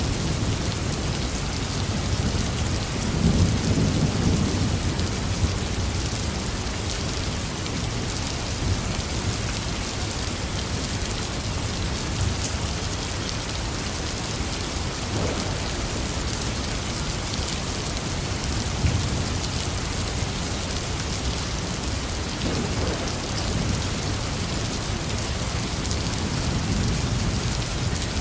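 Heavy rain falling steadily, with a low roll of thunder swelling a few seconds in and fainter rumbles later on.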